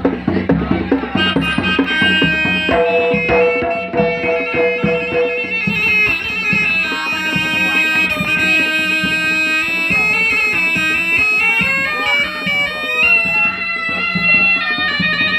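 Jaranan ensemble music: a shrill reed pipe plays a wavering, sliding melody over steady hand-drum (kendang) strokes.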